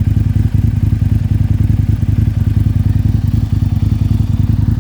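2007 Aprilia Tuono's V-twin engine, fitted with an Akrapovic exhaust, idling steadily.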